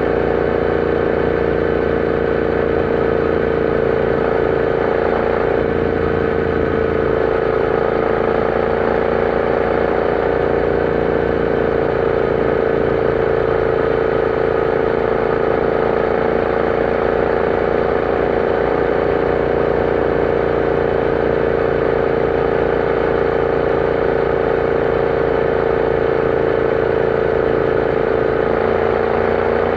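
Royal Enfield Interceptor 650's 648 cc parallel-twin engine running at a steady, nearly constant engine speed while riding.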